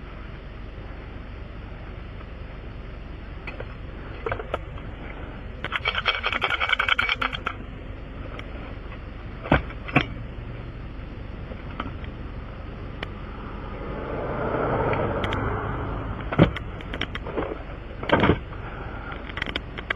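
Metal hand tools clinking and rattling while a tire puncture is plugged: a rapid rattle about six seconds in, then a few sharp clicks. A steady low hum runs underneath, and a vehicle passes near the middle.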